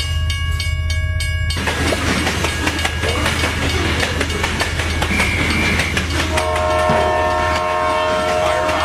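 Steady low rumble with dense clattering noise, like a train running. About six seconds in, a horn chord of several tones starts and holds.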